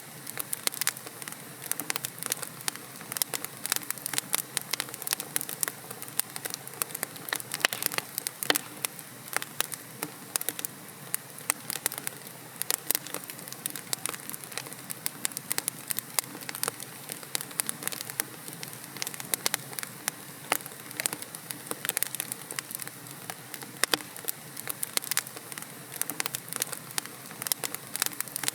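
Wood fire in a fireplace crackling: a steady hiss of burning logs with dense, irregular sharp pops and snaps throughout.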